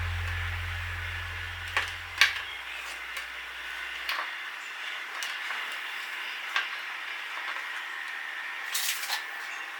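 A handful of small sharp clicks and taps, about seven spread through, over a steady hiss, with two close together near the end. A low hum fades out during the first four seconds.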